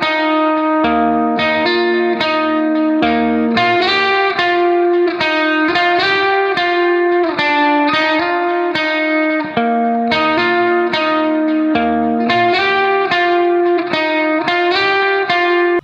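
Background music: a plucked guitar melody of quick, evenly paced notes over a repeating bass line, cutting off suddenly at the end.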